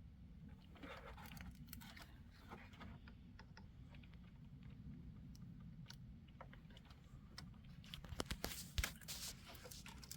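Plastic wiring-harness clips being worked and pried loose by hand: scattered small clicks and rustling, then a burst of sharper clicks about eight seconds in as a clip comes free. A low, steady hum runs underneath.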